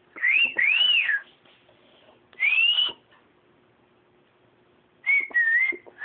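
Clear whistled notes: a quick rising glide and an arching up-and-down glide about a second in, another rising whistle a little later, then a string of short, nearly level notes near the end.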